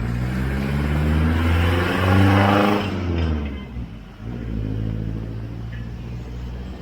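A motor vehicle's engine accelerates past, its pitch rising and then dropping away, loudest a little over two seconds in. A second engine runs steadily from about four seconds in.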